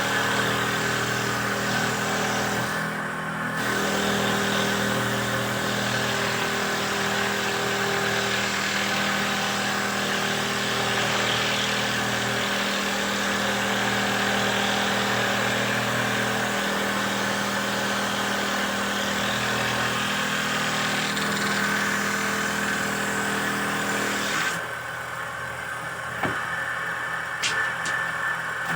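Motor of a handmade wooden dowel machine running steadily with a constant hum, then stopping near the end, followed by a few sharp clicks.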